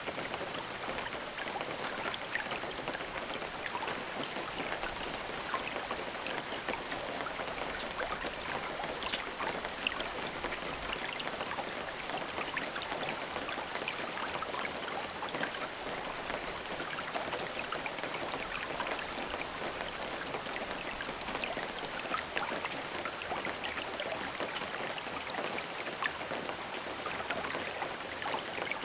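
Steady rain falling, an even hiss with many small, close drop ticks and no thunder.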